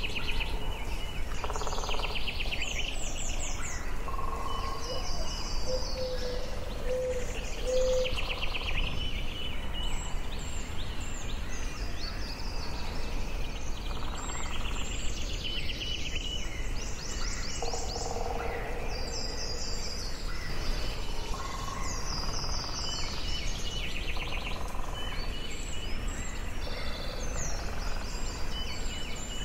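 Forest birdsong: several birds singing and calling at once, with quick high trills and chirps throughout and a short run of about four low repeated notes about six seconds in, over a steady background hiss.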